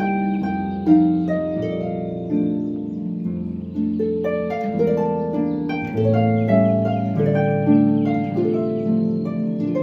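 Background music on solo harp: plucked notes in a gentle melody, ringing and fading over lower bass notes.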